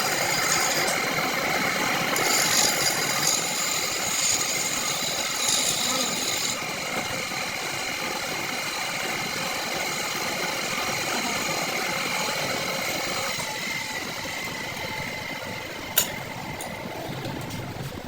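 A workshop machine running steadily, with several steady whining tones over a broad mechanical hum that shifts a little partway through; a single sharp click near the end.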